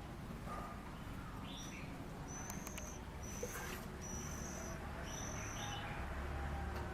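Oriental magpie-robin giving a series of short, high, thin call notes, about four of them roughly a second apart, with a few lower chirps in between.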